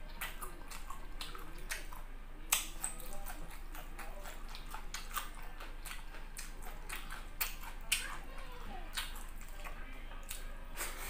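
Close-miked eating sounds: irregular wet clicks and smacks of a person chewing a green chili and rice, with louder clicks about two and a half seconds in and again near eight seconds.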